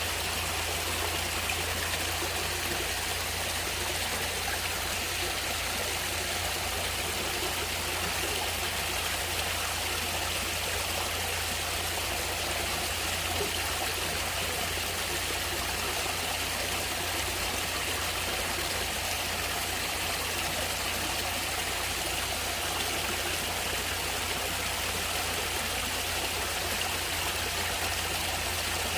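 Natural stream water running steadily, an even, unbroken rush with no pauses.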